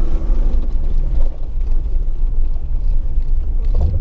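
Jeep WJ Grand Cherokee running as it drives over frozen, rock-solid ground: a steady low engine rumble, with a low thump near the end.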